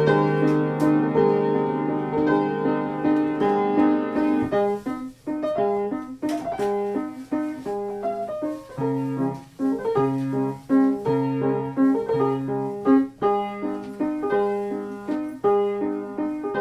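Instrumental piano music: notes played in a steady moving pattern over sustained lower chords.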